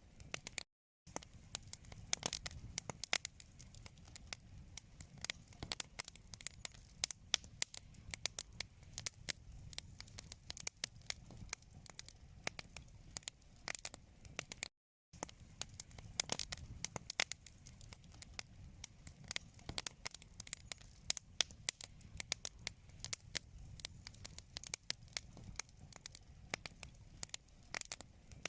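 Wood fire in a fireplace crackling: dense, irregular pops and snaps over a soft low rumble of the flames. The sound cuts out completely twice for a split second, about a second in and about halfway through.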